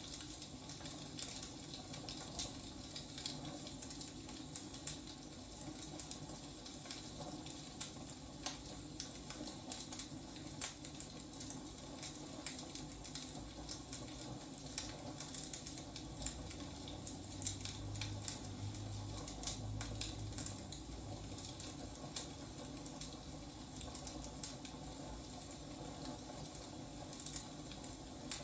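Wood fire crackling, with frequent small pops and snaps over a steady low hiss.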